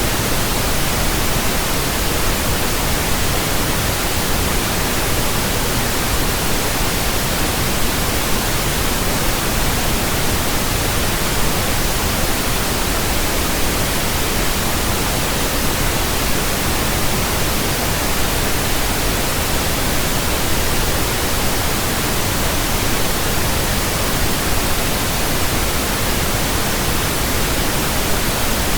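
Steady pink noise from a pink noise generator, an even hiss across the whole audible range: a burn-in signal for new speakers, headphones and earphones.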